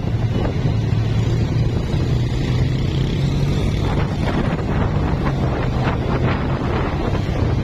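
Carburetted Honda Blade motorcycle engine running steadily with a low hum while riding, with wind buffeting the microphone.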